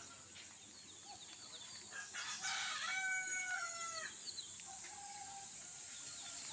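A rooster crowing once, about midway, one drawn-out call that drops in pitch at the end. Short bird chirps come before it, over a steady high hiss.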